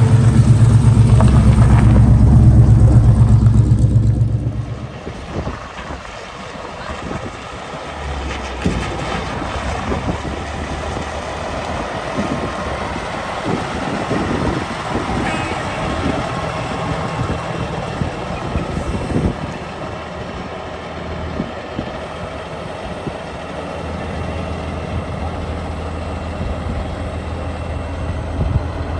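A car engine running loud and low close by, fading away about four seconds in. Quieter engine rumble comes and goes in the background after that.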